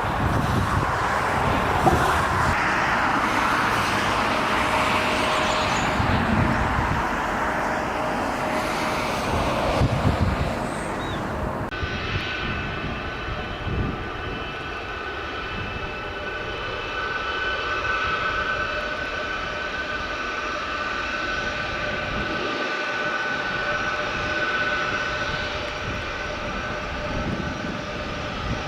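Jet airliner engines. A loud rushing roar gives way abruptly, about twelve seconds in, to a steady engine whine with several held tones over a quieter rumble.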